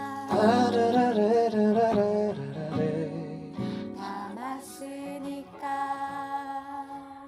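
Live acoustic music: an acoustic guitar played, with a wavering melody line over it in the first few seconds and held notes after.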